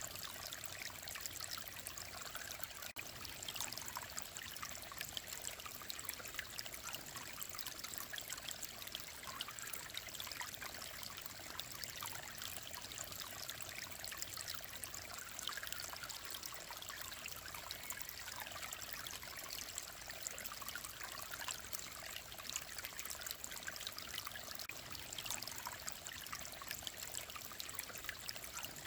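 Clear mountain-valley stream flowing steadily, a continuous babbling trickle of water.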